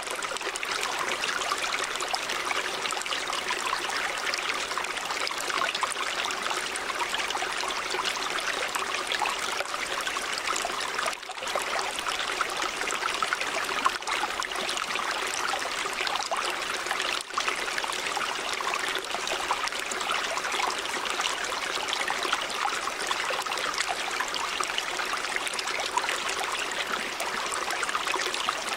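River water running steadily, an even rushing with no let-up apart from two very brief dips in level.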